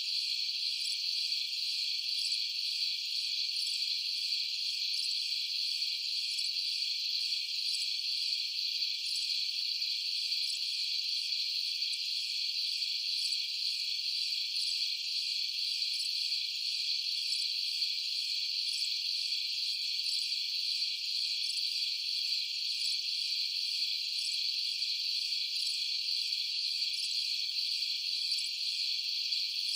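Crickets chirping in a dense, steady, high-pitched chorus.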